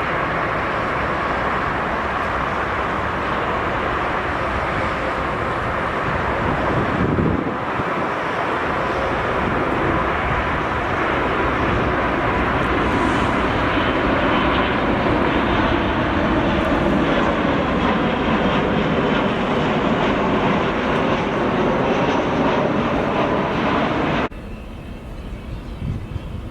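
Jet airliner engines running loud and steady, a constant rush with a faint steady whine. The sound cuts off abruptly about 24 seconds in, leaving a much quieter background.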